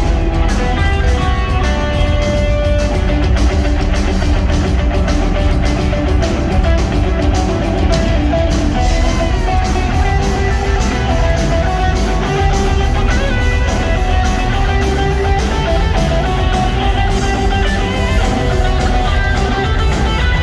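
Rock band playing live: electric guitars over bass and a drum kit, an instrumental jam at a steady loud level.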